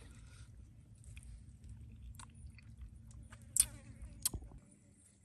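A person chewing and biting into grilled duck, with a few sharp crunching clicks, the loudest about three and a half seconds in.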